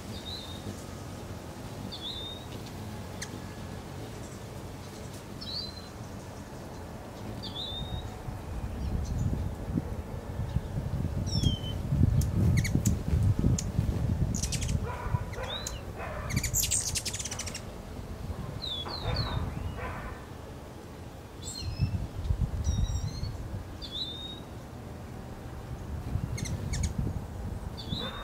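Small birds chirping: short, high chirps every couple of seconds, with a few quick trills in the middle. Under them a low rumbling noise swells up in the middle and again near the end, and this is the loudest sound.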